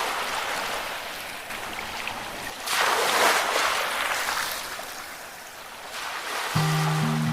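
Sea waves breaking and washing up on the shore in rolling surges, the loudest about three seconds in. Music comes back in near the end.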